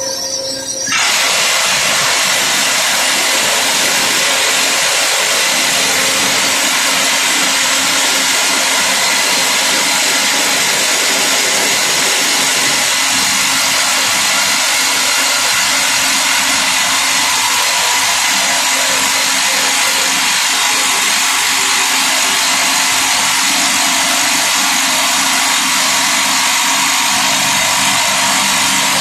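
Simba S7D drill rig's hydraulic top-hammer rock drill starting to drill about a second in, then hammering steadily into rock with a 64 mm bit on T-38 rods, loud and unbroken, over the steady hum of the rig.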